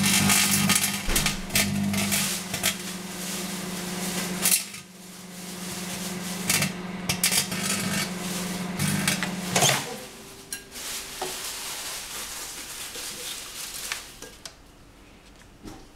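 Microwave oven humming while laminated foil inside it arcs, giving loud, irregular crackling and snapping sparks. The hum stops about ten seconds in, followed by a few scattered clicks.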